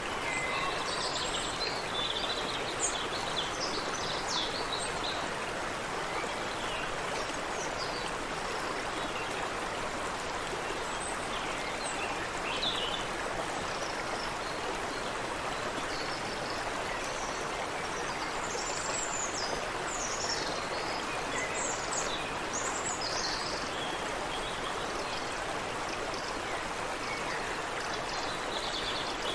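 Water running steadily in a creek, a constant rushing hiss, with birds calling in short high chirps over it, most busily near the start and again past the middle.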